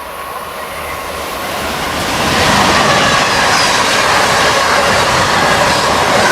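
A northbound Amtrak train of single-level Amfleet cars, hauled by an AEM7 electric locomotive, rolling past at low speed with a steady rush of wheel and rail noise. The noise grows louder over the first two seconds or so, then holds steady.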